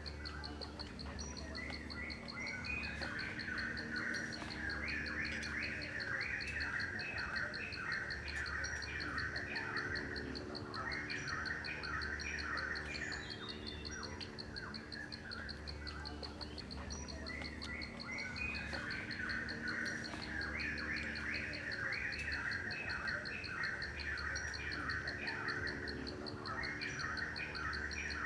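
Birds chirping and singing in two long bouts over a steady, high-pitched insect trill, as from crickets.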